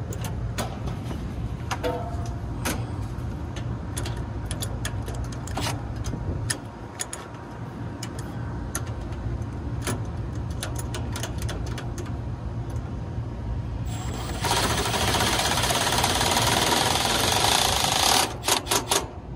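Hand tools working on the bolts of a condenser fan motor's mounting bracket: a run of metallic clicks and taps. About fourteen seconds in, a power driver runs for a few seconds and ends in a few short bursts.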